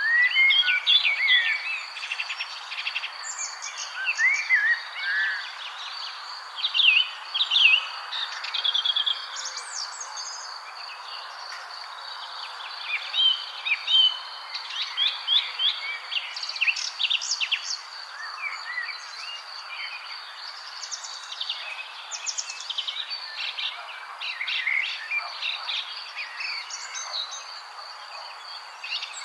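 Several songbirds chirping and singing in quick, overlapping phrases over a steady background hiss, with a continuous high insect-like drone.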